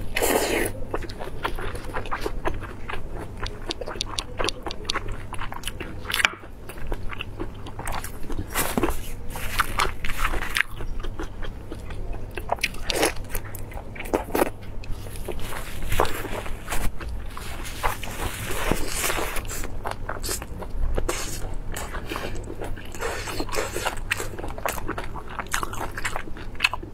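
Close-miked biting and chewing of a glazed lamb sausage (lamb meat stuffed in lamb intestine casing): irregular wet crackling chews and bites, with a steady low hum underneath.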